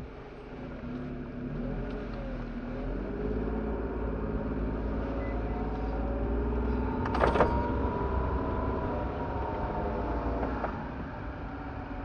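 Car engine running and revving under load, getting louder over the first few seconds, with a sharp scrape or knock about seven seconds in.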